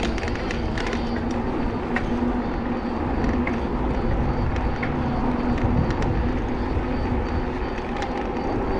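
Steady street and traffic noise heard from a moving bicycle: a low rumble with a steady engine hum, and scattered light clicks and rattles.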